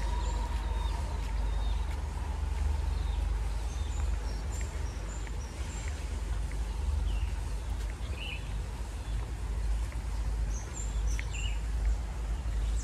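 Small birds chirping: short, high calls scattered irregularly throughout, over a steady low rumble.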